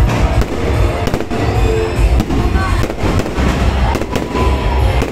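Aerial fireworks going off in quick succession: many sharp bangs and crackles over a low rumble.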